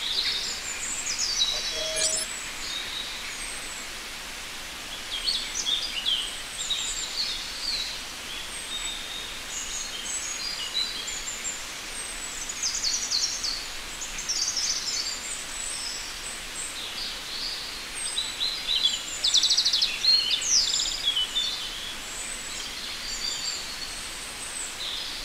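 Birds chirping and singing: many short high calls and trills overlapping over a steady faint hiss, with a rapid trill about three-quarters of the way through.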